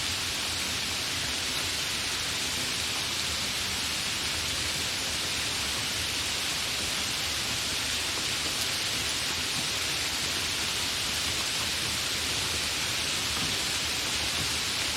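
Steady, fairly heavy rain without thunder: an even, unbroken hiss of falling drops.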